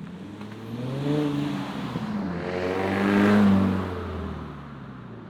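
Car engine revving: a short rise in pitch, then a longer, louder rev that peaks and falls back.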